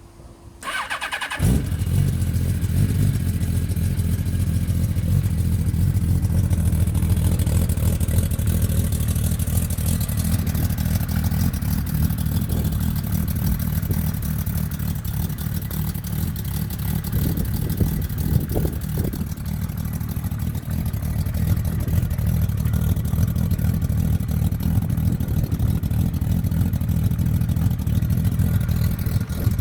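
Kawasaki KZ1300 inline-six engine breathing through a 6-into-1 Delkevic exhaust: the engine cranks briefly, catches about a second and a half in, and then idles steadily.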